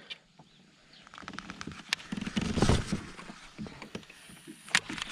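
Scattered clicks and knocks of fishing tackle on a kayak as a topwater frog lure is cast, with a louder cluster about halfway through and a sharp click near the end.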